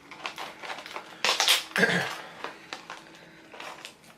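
Plastic snack packaging crinkling and crackling as it is opened and handled, in a run of short irregular clicks with a louder flurry about a second and a half in.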